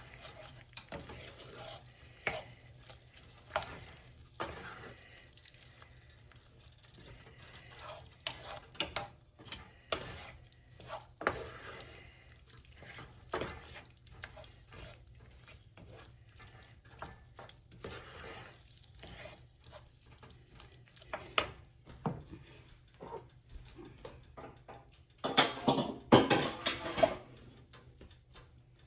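Spoon stirring chicken and herbs through a cream sauce in a skillet: scattered wet scrapes and knocks against the pan, with a louder, busier spell of clatter near the end.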